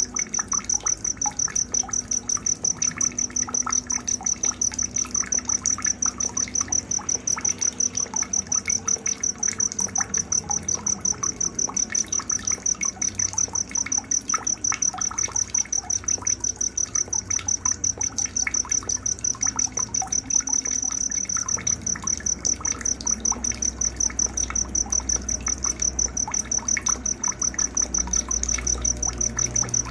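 Night nature ambience: a cricket chirping high and steady, about three pulses a second without pause, with faint scattered bird chirps and a low trickle of water beneath.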